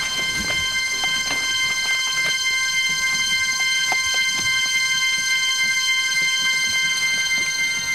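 A sustained high drone of several steady tones held together without a break, with scattered crackles and clicks underneath.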